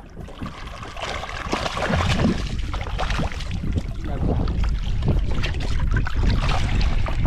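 Water splashing and sloshing at the side of a small boat as a hooked shovelnose shark thrashes at the surface, with wind rumbling on the microphone. The splashing builds about a second in and stays busy.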